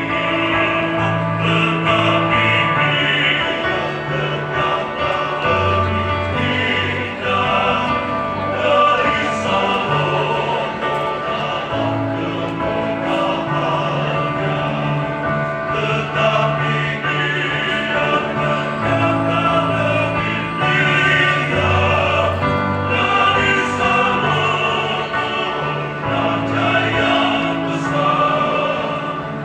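Choir singing in several parts, holding long notes over a low bass line that moves every second or two.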